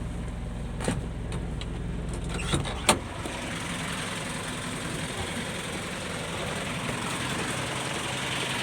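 Dump truck's diesel engine idling with a low, steady hum, with a few sharp clicks or knocks in the first three seconds. About three seconds in the engine hum drops away, leaving a steady hiss.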